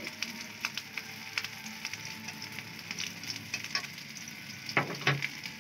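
Beef shami kebabs sizzling in shallow oil on a tawa, a steady hiss with scattered crackling pops. There are two sharper, louder clicks near the end.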